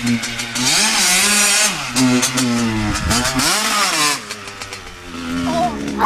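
Dirt bike engine revving up and down several times, its pitch rising and falling, loudest about a second in and again around three to four seconds in, then easing off near the end.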